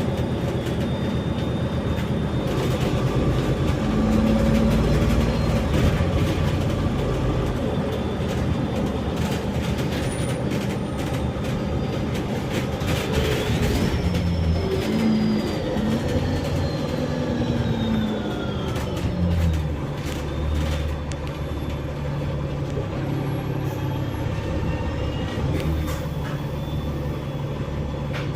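Bus engine and drivetrain running, heard from inside the bus, with rattling clicks from the body. About halfway through, a thin whine falls steadily in pitch, and later the engine note drops.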